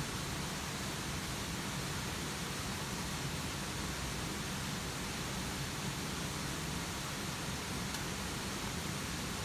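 Steady rain falling, an even hiss with no distinct drops or pops.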